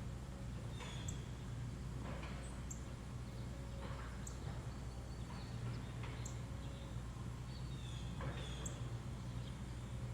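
Songbirds at a feeder giving short, high chirps every second or two, with a few brief rustles, over a steady low background hum.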